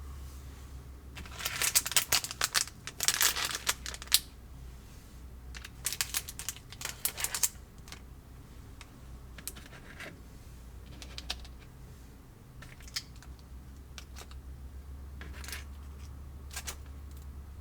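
Plastic snack-kit packaging crinkling and tearing in two bursts of a few seconds each, followed by a few scattered light clicks and taps as pieces are handled.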